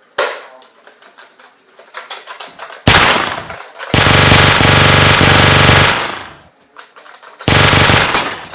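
Machine-gun sound effect in bursts of rapid fire: a short burst about three seconds in, a longer burst of about two and a half seconds, and another short burst near the end.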